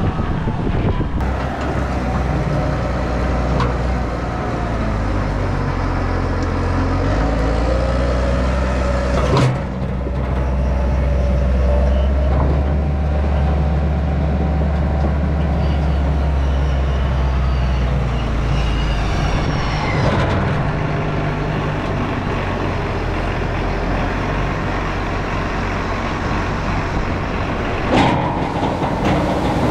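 Large diesel farm machine running steadily under load, a continuous low engine drone that changes pitch a few times. Two sharp clicks stand out, one about a third of the way in and one near the end.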